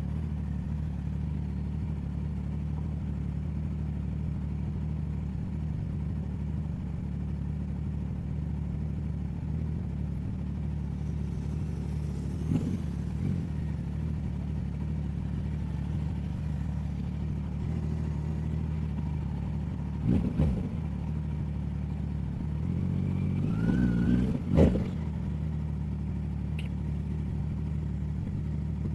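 Motorcycle with a sport exhaust idling steadily, with a few short knocks and clatter near the middle and twice near the end.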